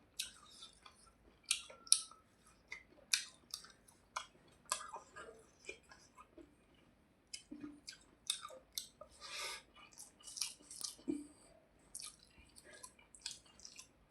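Close-miked chewing of a mouthful of rice and fish, with many irregular wet mouth smacks and clicks.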